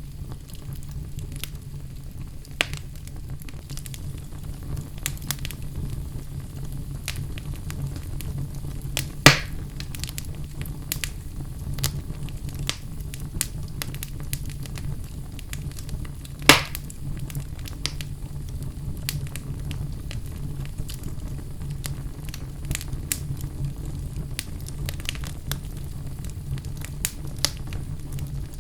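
Wood fire burning in a fireplace: a steady low rumble of flames with scattered crackles and two louder pops, about a third of the way in and past the middle.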